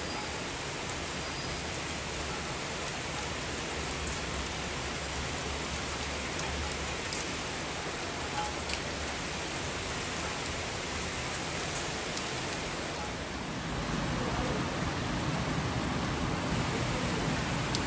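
Heavy monsoon rain falling, a dense, even hiss of rain. About three-quarters of the way through it gets a little louder and fuller.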